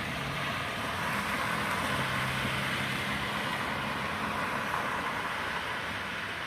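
Steady street traffic noise, a hiss of tyres on the snowy road with a low engine hum from a passing vehicle for a few seconds.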